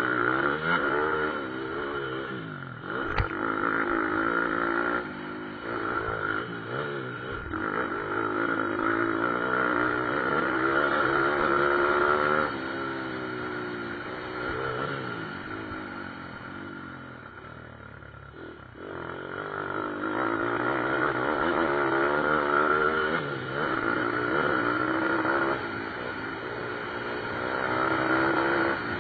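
Several pit bike engines racing: revs rising and falling with gear changes, overlapping as the bikes pass. The sound thins out and falls quietest a little after halfway, then builds again as the bikes come back near, with a sharp click about three seconds in.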